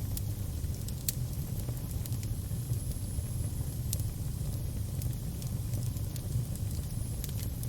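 Fire crackling, with sharp pops now and then over a low steady rumble; a cluster of pops comes near the end.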